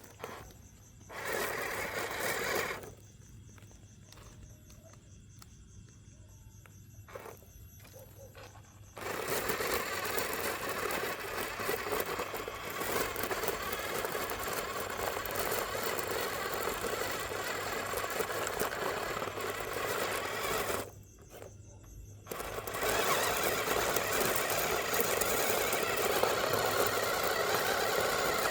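Small electric motor of a toy monster truck whirring in long runs: a short burst about a second in, then a long run from about 9 seconds, a brief stop near 21 seconds, and a louder run after it.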